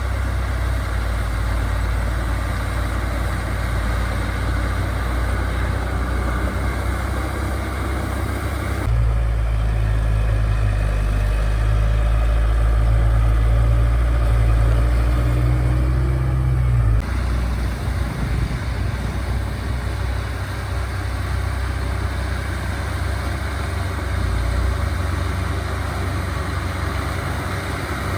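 Diesel engines of heavy earthmoving machinery running steadily with a strong low rumble; the sound changes abruptly about nine seconds in and again about seventeen seconds in.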